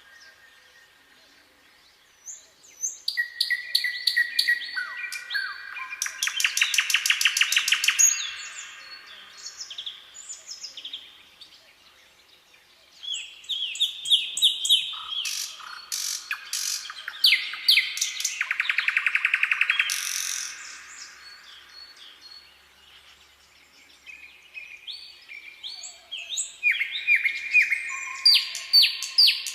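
Songbirds singing in three bouts of chirping phrases, each building into a rapid trill, with quieter pauses between the bouts.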